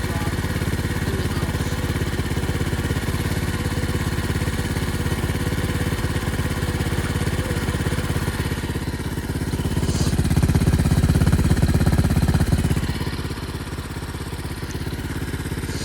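Pit bike's small single-cylinder engine running with rapid, even firing pulses. It revs up and gets louder about two-thirds of the way through, then eases back.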